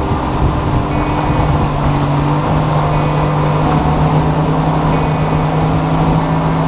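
Boat motor running steadily under way, its low tone rising slightly about two seconds in.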